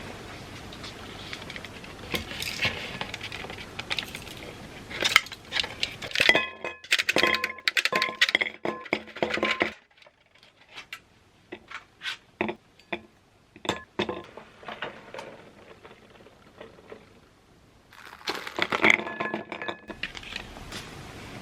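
Dishes and a spoon clinking with short ringing tones, handled in clusters: a dense run of clinks after some rustling, scattered taps in a quieter stretch, and another cluster near the end.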